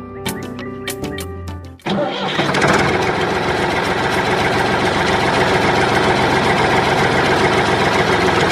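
Background music, then about two seconds in a motor cuts in abruptly and keeps running loud and steady.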